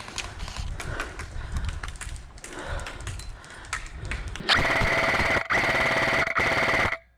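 Rustling and scattered clicks of movement, then, a little past the halfway point, an airsoft electric rifle firing close by on full auto: a rapid mechanical buzz of shots with a gearbox whine, held for about two and a half seconds with two brief let-offs of the trigger, then cut off suddenly.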